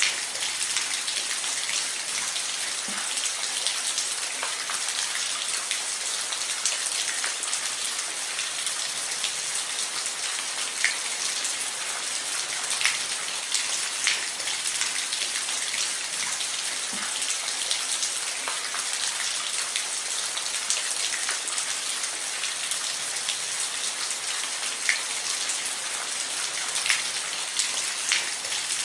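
Steady rain falling on a roof: an even hiss with scattered louder drops ticking here and there.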